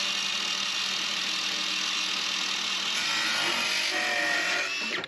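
Electric power sander running against wood, a steady hiss with no pauses.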